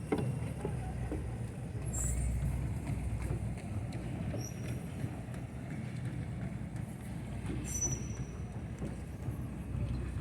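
Steady low rumble of outdoor urban ambience, with a few short high-pitched chirps about two, four and a half, and eight seconds in.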